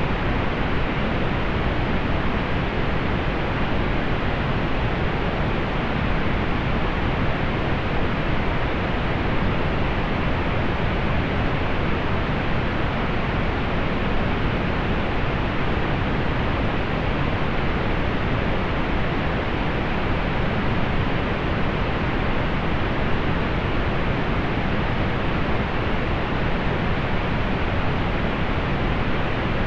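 Steady pink noise: an even, unchanging hiss, strongest in the low end and falling away in the highs, with no events.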